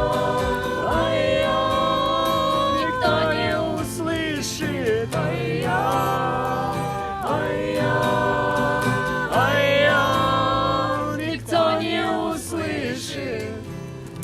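Several voices singing long, held "oy-yo" notes of a chorus together over a strummed acoustic guitar.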